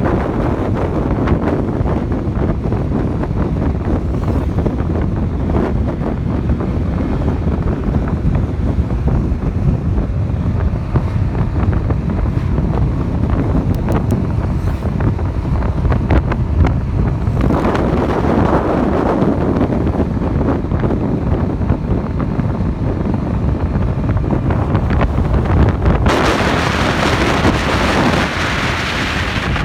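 Wind buffeting the microphone of a moving motorcycle, with engine and road noise underneath. About 26 seconds in, a brighter hiss comes in.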